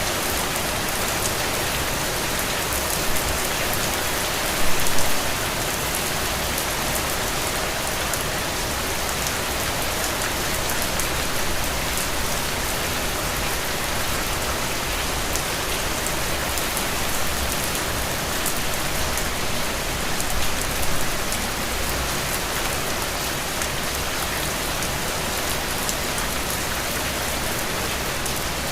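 Steady rain falling: an even hiss of rain with fine patter of individual drops, and a couple of brief louder splashes, about five seconds in and again about twenty-one seconds in.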